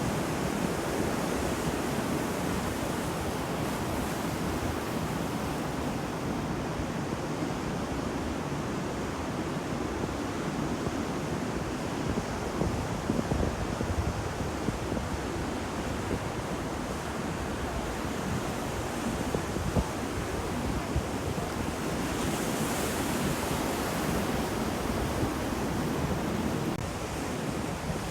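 Sea surf: waves breaking and washing in a steady rushing noise, with wind.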